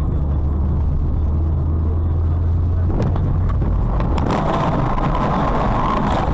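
A car on the move: a steady low engine and road rumble. About three seconds in there is a click, and from about four seconds a rougher, hissier noise takes over.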